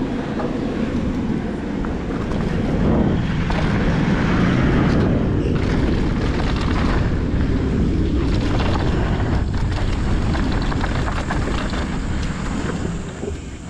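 Wind rushing over the camera microphone and tyres rolling on a dirt trail as a mountain bike is ridden downhill; the noise eases off near the end as the bike slows.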